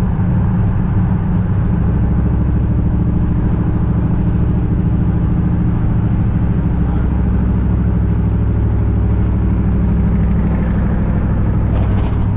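Motor vehicle running steadily: a low, even engine drone with road noise, with no revving.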